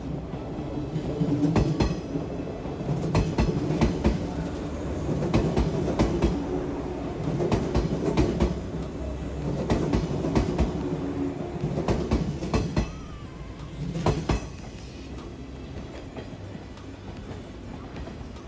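JR West WEST EXPRESS Ginga, a converted 117-series electric train, rolling slowly past along the platform, its wheels clicking again and again over the rail joints under a steady rumble. The clicks and rumble fade out about fifteen seconds in, leaving a quieter steady hum.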